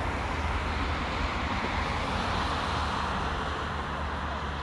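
Steady road traffic noise: a constant rumble and tyre hiss of passing vehicles.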